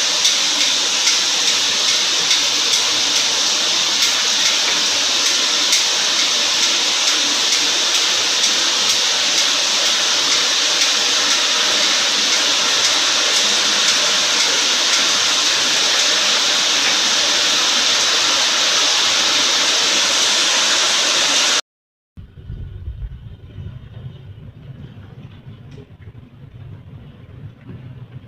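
Heavy storm rain pouring down in a loud, steady hiss. About 22 seconds in it cuts abruptly to a quieter recording dominated by a low rumble.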